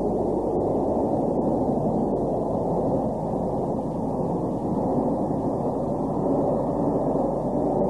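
A train running, heard as a steady, muffled noise with little high end and no distinct engine note.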